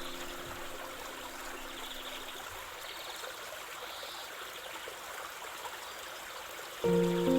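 Running water of a flowing stream, a steady trickle. Held notes of soft background music die away in the first few seconds, and a new chord enters near the end.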